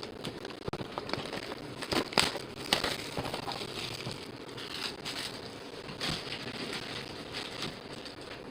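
Plastic and foil packaging crinkling and tearing in irregular bursts as a box of baseball card packs is opened by hand, loudest about two to three seconds in.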